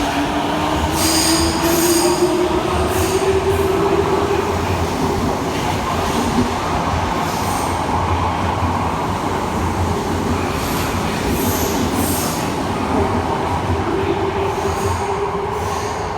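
Tokyo Metro Tozai Line subway train pulling out of the station: a motor whine rises in pitch as it speeds up over the first few seconds, then holds steady over the rolling rumble. High wheel squeals cut in briefly about a second in and again around eleven to twelve seconds.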